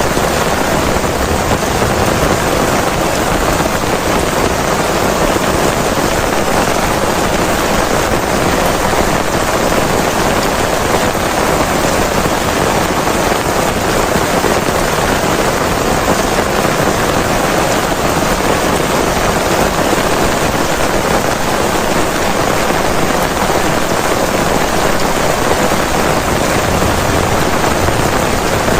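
Heavy rain falling steadily, a loud and even hiss with no breaks or single events.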